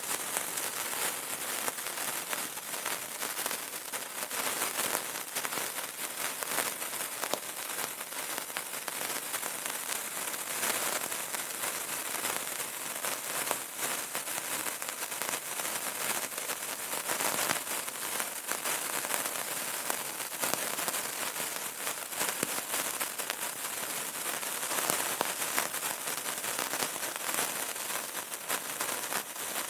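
Burning candle crackling steadily, a dense run of fine snaps and pops without pause.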